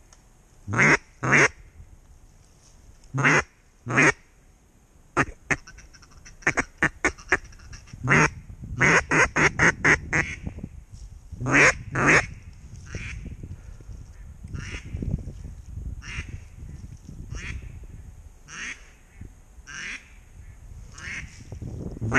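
Loud duck quacks, single and in pairs, with a quick run of about eight quacks in the middle and fainter quacks later, over a low rumble in the second half.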